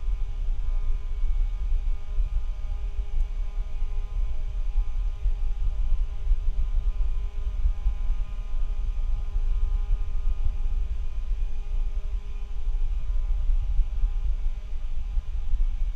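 Steady low rumble from a poor-quality microphone, with several faint constant hum tones over it.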